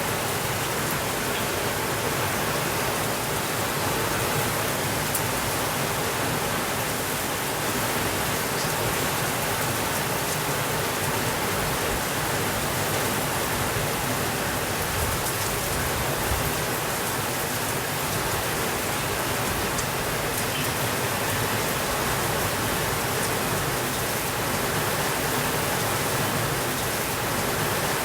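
Heavy rain falling steadily on a window, an even hiss of drops with no thunder.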